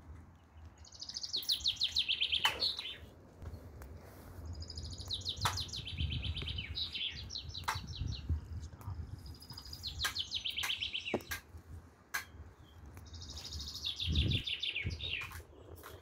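A songbird singing four phrases a few seconds apart. Each phrase is a fast trill of repeated high notes that steps down in pitch and ends in a quick downward flourish. A few sharp clicks sound between the phrases.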